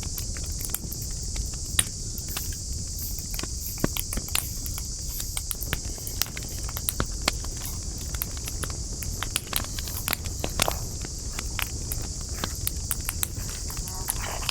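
Campfire of burning wood crackling, with irregular sharp snaps and pops scattered through it, over a steady high-pitched hiss and a low rumble.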